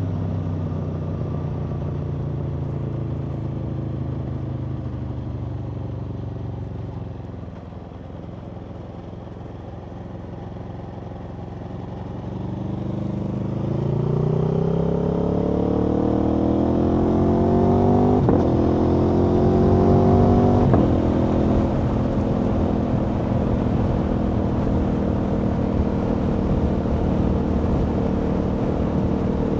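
Aprilia Tuono V4's V4 engine on the road: it winds down and runs softly for several seconds, then pulls hard with a rising note. Short breaks about 18 and 21 seconds in sound like quick upshifts, and after them it holds a steady cruising note.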